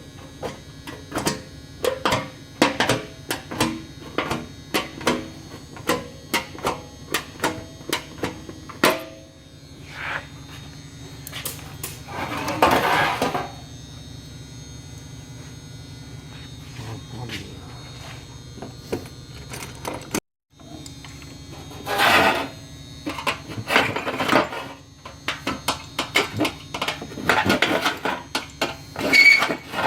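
Hand work on a sheet-metal cowling panel: irregular sharp metallic taps and clicks, several a second, over a steady low hum, broken by a few longer scraping strokes.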